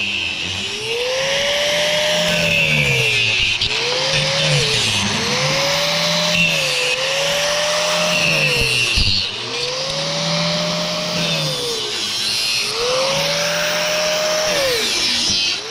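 A power tool run in repeated bursts, its motor pitch climbing and then sagging about six times, over a steady rasping cutting noise.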